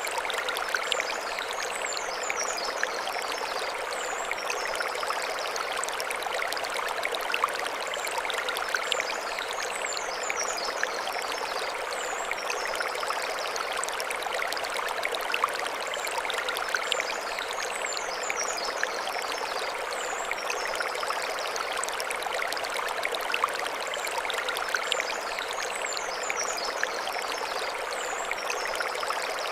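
Mountain stream flowing over stones: a steady rush of water with small splashes and trickles. A faint high chirping repeats about every eight seconds.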